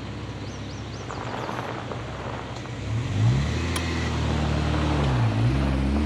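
A vehicle's engine and road noise. About halfway through the engine note comes up and rises as it accelerates, dips briefly and then climbs again.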